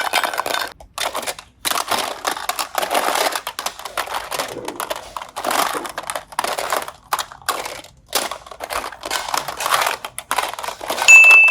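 Slime squeezed and kneaded by hand: a run of irregular crackly, squelchy bursts with short pauses between them. Near the end a loud, steady high-pitched beep starts.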